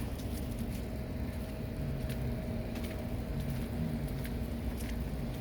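A car running, with a steady low engine and road rumble and a few faint ticks over it.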